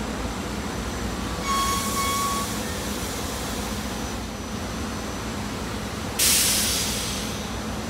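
SEPTA Regional Rail electric train running slowly past the platform with a steady rumble. A brief high squeal comes about a second and a half in, and a sudden loud hiss of air comes about six seconds in and fades over a second.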